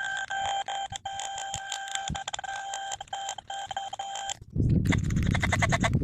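Crash sound of a cheap Chinese mobile phone played at four times speed: a steady electronic beep tone from the phone's speaker, stuttering with brief dropouts. About four and a half seconds in it switches to a louder, harsh, rapidly pulsing buzz.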